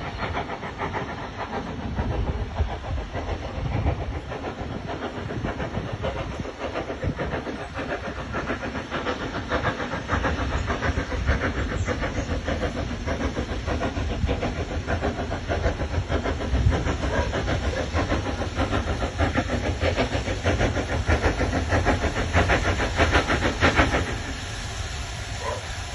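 Train running along the track, a steady noisy rumble and hiss with a fast rhythmic clatter; it drops off abruptly near the end.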